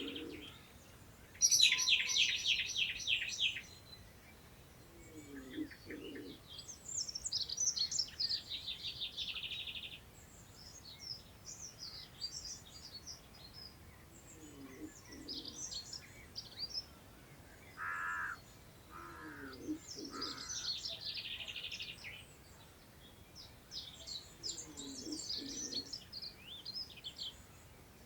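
Several songbirds singing in turn, with high phrases that often end in a fast run of repeated notes. Low, curved calls recur every few seconds beneath the songs, over a faint steady rush of wind in long grass.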